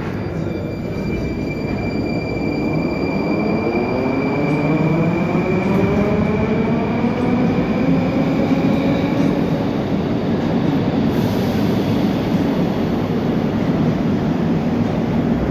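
Moscow Metro 81-740.1/741.1 train's traction motors whining as it accelerates, several tones climbing steadily in pitch over the rumble of the wheels and growing louder.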